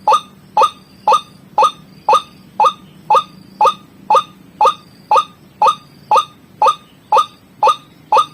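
White-breasted waterhen (ruak-ruak) call played as a bird lure: short, loud, identical notes repeated at an even pace, about two a second.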